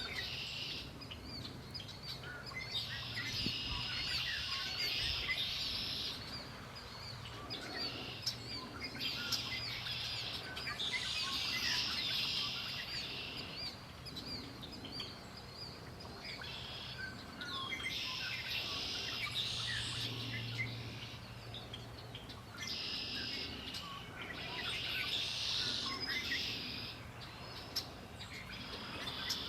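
Songbirds singing: song phrases of about two to three seconds repeat every few seconds, with short chirps from other birds in between.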